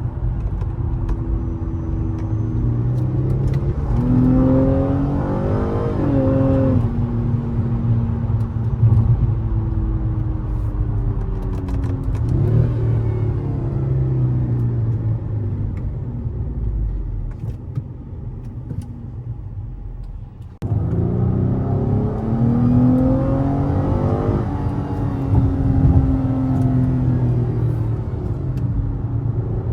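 Nissan Maxima SR's V6 engine through an aftermarket Corsa exhaust, revving up hard in steps as it runs through the gears and dropping back as the car slows and downshifts. It does this several times, and the sound breaks off suddenly about twenty seconds in before the engine climbs again.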